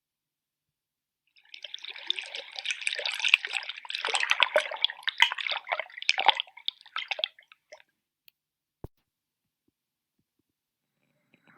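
Underwater recording of a natural sea sound: dense crackling and popping made of many short clicks for about six seconds, fading out, then one lone click.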